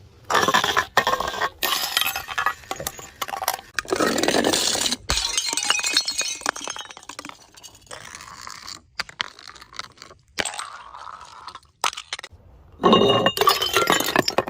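Glass bottles shattering, with shards clinking and scraping, in a run of separate crashes broken by abrupt cuts. The loudest crash comes near the end.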